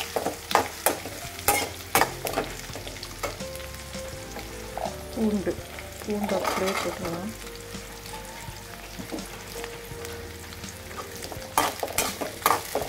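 Onions and curry leaves frying in oil in a steel kadai, with a metal spatula scraping and clacking against the pan as they are stirred. About six seconds in, peeled garlic cloves are tipped into the hot oil, and more spatula clacks come near the end as the garlic is stirred through.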